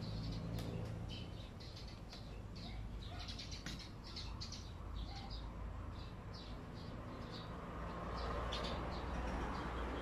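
Small birds chirping in quick, scattered short calls, many of them close together about halfway through, over a low steady background rumble.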